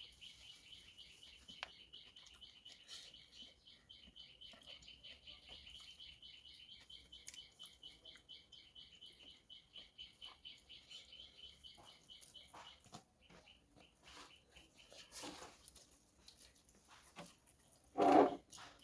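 Rapid, high-pitched chirping repeated about five times a second, which stops about 13 seconds in. Scattered light clicks follow, and one short, louder sound comes near the end.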